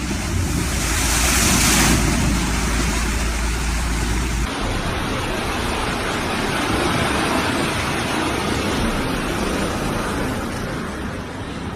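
Steady rushing noise of storm wind and water, which changes abruptly about four and a half seconds in.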